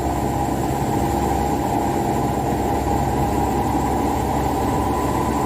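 Mitsubishi Canter 125HD dump truck's diesel engine running steadily, heard from inside the cab.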